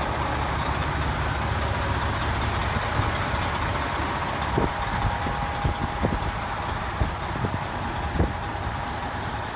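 Semi truck's engine idling steadily, with several short sharp knocks or clicks in the second half.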